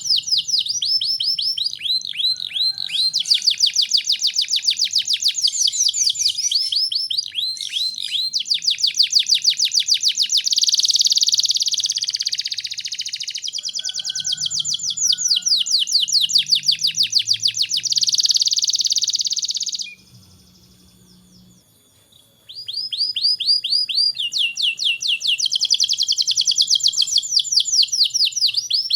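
Domestic canary singing, long rapid trills and rolls in quick succession, high-pitched. The song breaks off for about two seconds about two-thirds of the way through, then resumes.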